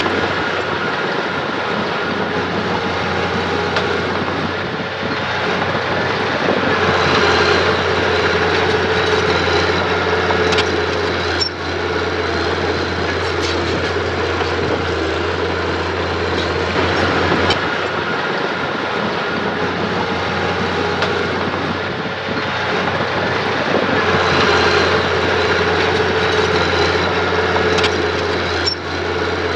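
Mitsubishi mini bulldozer's diesel engine running steadily, swelling louder three times as it works under load, with a couple of sharp metal clanks.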